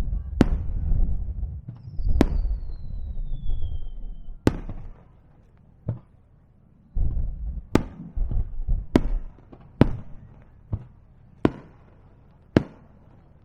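Aerial fireworks bursting: about eight sharp cracking reports over a low booming rumble. The rumble fades after about four seconds and returns around seven seconds. A thin whistle falls in pitch from about two to four seconds in.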